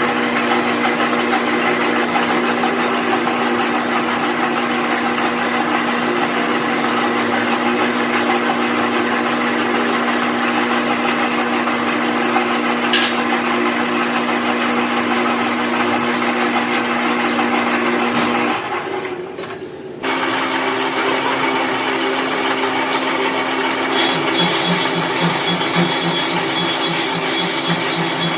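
A motor-driven workshop machine running steadily with a fixed hum. About two-thirds of the way through it drops briefly, then carries on with a changed tone, later joined by a higher whine and a fast rattle.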